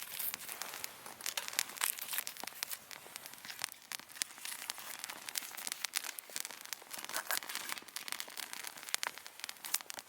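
Wood fire crackling: a dense, irregular run of sharp snaps and pops over a steady hiss.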